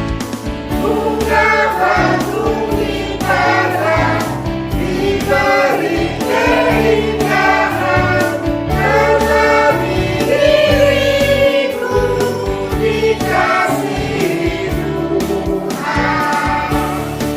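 Choir singing a Christian hymn in phrases over a steady low accompaniment.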